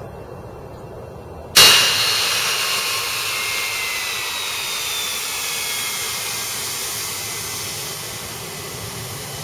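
Private jet's engines: a loud jet rush starts abruptly about one and a half seconds in, with high whining tones that slide slowly down in pitch as the sound gradually fades, as when the jet passes and moves away.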